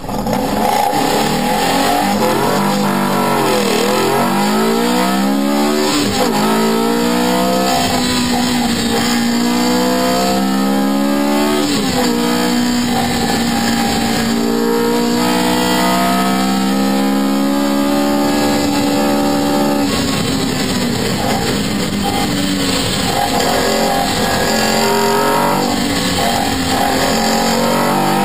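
Kudos Coupe's engine heard from inside the cabin, accelerating hard from a standing start and revving up through the gears. The pitch climbs and drops back at each gear change, several times over.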